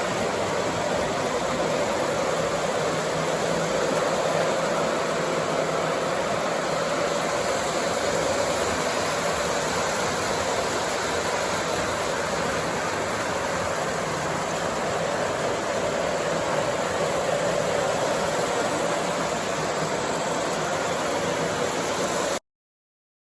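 O scale model train running steadily along its track, a continuous rolling noise that cuts off suddenly near the end.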